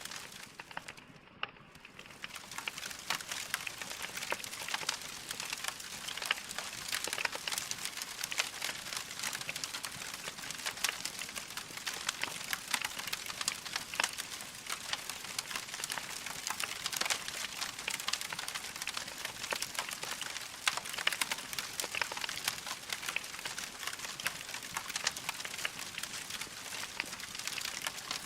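Log fire crackling: a dense, irregular run of small snaps and pops over a soft hiss, with a brief lull about a second in.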